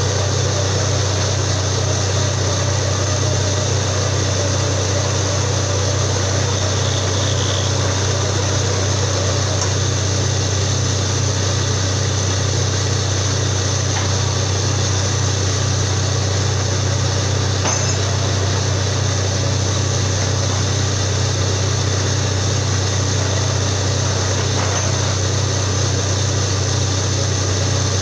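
Borewell drilling rig's engine running steadily at a constant, loud level, with a deep drone and a few faint ticks over it.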